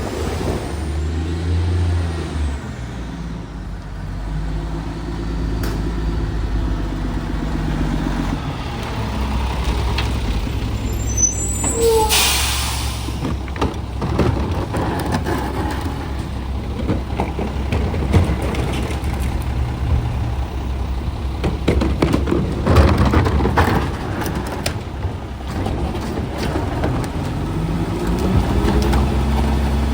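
Garbage truck's diesel engine running, with a short loud hiss of air brakes about twelve seconds in, and the engine rising in pitch as it speeds up near the end.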